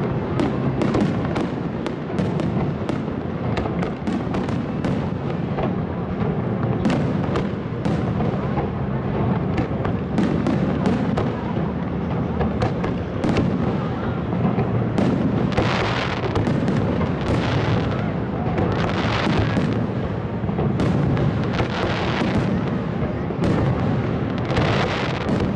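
Fireworks display: a rapid series of bangs and cracks, then from about halfway several crackling, hissing bursts of about a second each, over a steady low rumble.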